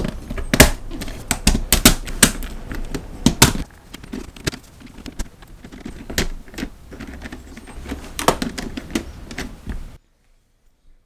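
Plastic Lego Technic parts clicking and clacking at an irregular rate, over a low rumble, cutting off suddenly about a second before the end.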